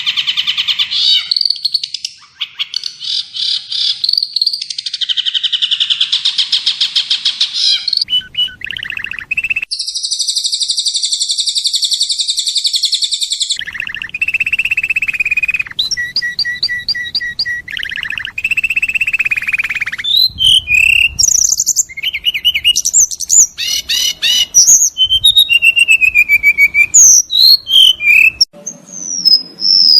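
Songbird tutor recording of spliced songs from different small birds: fast buzzy trills for the first several seconds, then a steady high held note, repeated chirps, and finally quick whistled notes gliding up and down.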